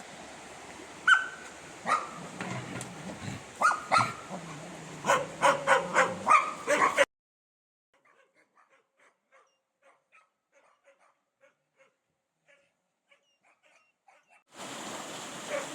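A dog yelping and barking in short, sharp calls over a steady hiss. About seven seconds in, the sound cuts off to near silence with only faint ticks, and the hiss comes back near the end.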